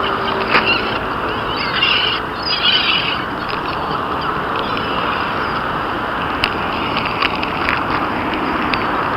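Seagulls and pigeons in a city square: a few brief squawking bird calls about two to three seconds in and scattered sharp clicks, over a steady wash of traffic noise.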